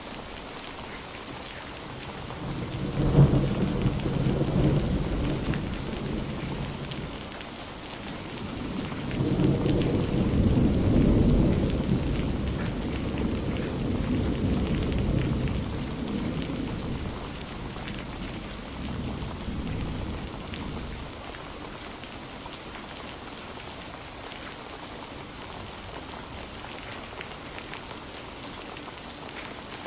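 Steady rain falling, with thunder over it. A sharp clap about three seconds in rumbles on for a few seconds, then a longer low rolling rumble builds from about nine seconds in and fades away by about twenty seconds.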